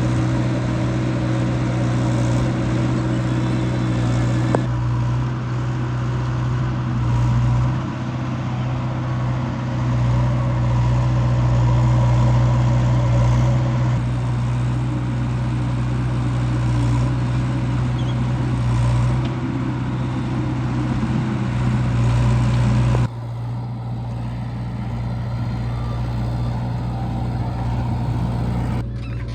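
Heavy earth-moving diesel engine running steadily with a strong low hum. The sound changes abruptly about five seconds in and again about 23 seconds in.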